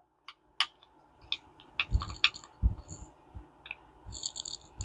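Small parts of a Ted Williams 540 push-button reel clicking and tapping as they are fitted together by hand. Irregular light clicks, a few near the end with a brief high ring.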